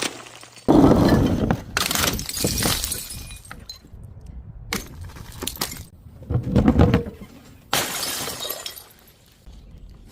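Glass bottles breaking and shattering in a series of about five separate crashes, each followed by the rattle of falling glass.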